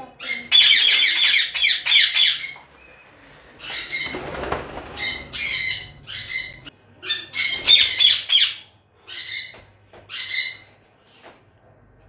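Caged ringneck parakeets squawking in repeated harsh bouts of calls, with short pauses between them and a quiet stretch near the end.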